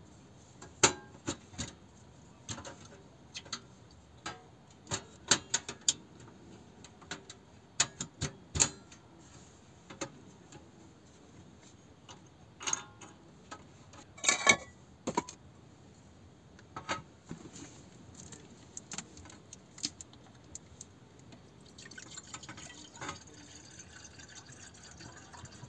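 Irregular clicks, taps and clinks of small objects being handled, with a brief cluster of louder clatter about halfway through.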